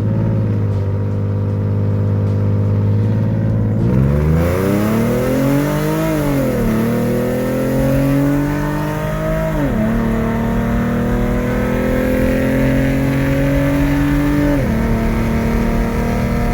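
Ford Mustang engine under hard acceleration. It runs at a steady pitch, then from about four seconds in climbs in revs through the gears, with quick drops at the upshifts about six and a half, nine and a half and fourteen and a half seconds in.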